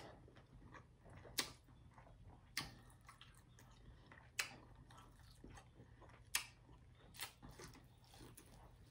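Faint close-miked chewing of lobster tail meat, with five short sharp wet mouth clicks spread across it.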